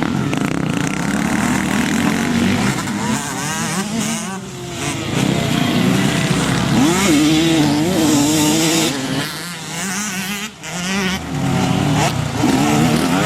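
Motocross bikes racing, their engines revving up and down with the throttle as they pass, several at once.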